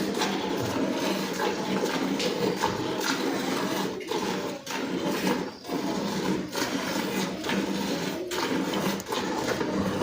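Milk squirting in streams into a pail as a cow is milked by hand, a steady hissing spray with a few brief breaks between squeezes.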